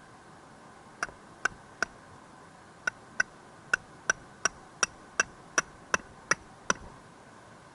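About fourteen sharp strikes, each with a brief metallic ring. Three come spaced out, then after a short pause a steady run of about three a second.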